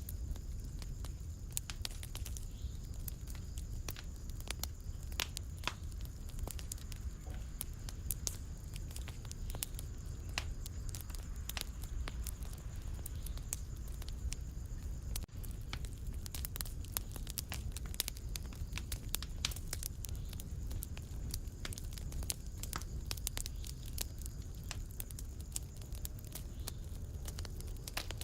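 Fireplace fire crackling: frequent sharp pops and snaps scattered over a low, steady rumble.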